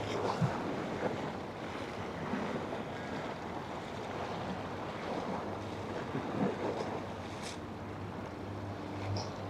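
Waterfront ambience of water washing and wind buffeting the microphone, with the low steady drone of a passing boat's engine, strongest in the second half, and a few light clicks.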